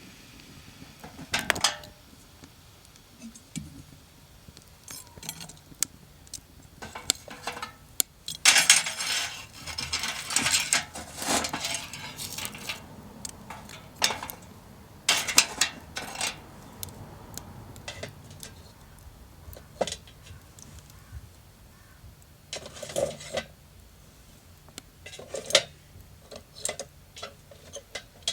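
Metal cookware and utensils clinking and scraping: scattered single clinks, with a longer run of clattering and scraping about eight to twelve seconds in.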